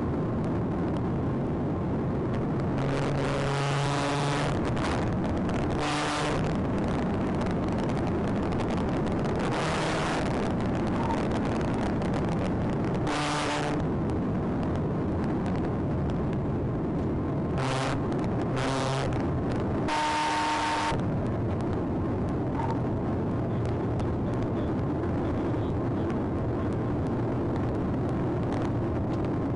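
Patrol car driving at pursuit speed: steady engine, tyre and wind noise. It is broken about seven times by short bursts of a pitched, tonal sound, the longest about twenty seconds in.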